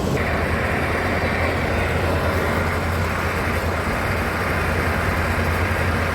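Steady low machinery hum, with an even hiss that sets in just at the start and holds steady.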